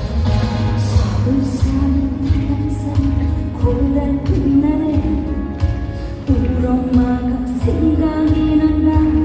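A Korean trot song performed live: a woman singing long held notes with vibrato and slides over a band accompaniment with a steady bass.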